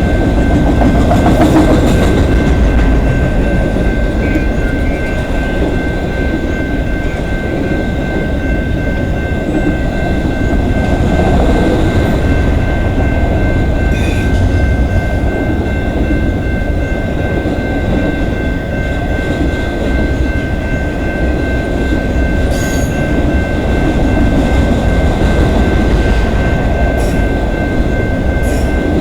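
CN Q122 intermodal freight train's cars rolling past: a steady rumble of steel wheels on rail, with a thin steady high tone and a few sharp clicks.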